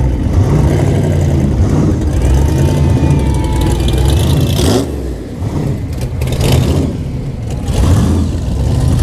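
Classic cars and hot rods rolling slowly past one after another, their engines rumbling steadily, with a few swells as individual cars pass close by.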